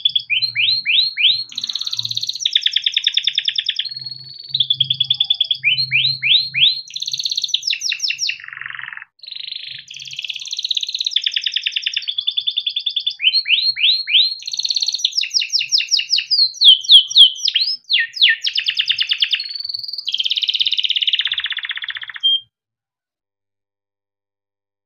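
A canary singing a long, continuous song of fast trills, repeated rising sweeps and held buzzy rolls. The song stops suddenly a couple of seconds before the end.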